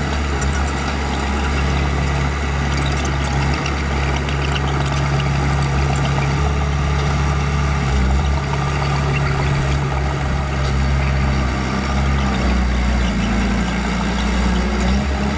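Bulldozer's diesel engine running steadily at a low, even pitch, with faint scattered ticks over it.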